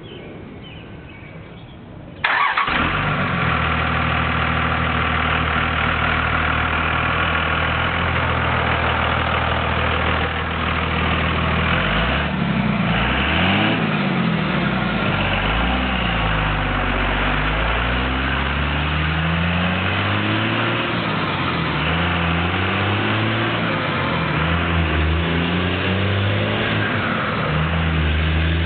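2002 Dodge Cummins 5.9-litre inline-six turbodiesel, loud through an open exhaust cutout, firing up about two seconds in. It idles steadily, then is revved up and down repeatedly from about halfway through.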